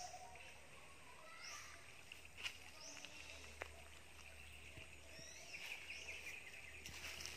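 Faint outdoor ambience with birds calling: several short, high, curved whistled calls and a faint pulsed trill, plus a few light clicks.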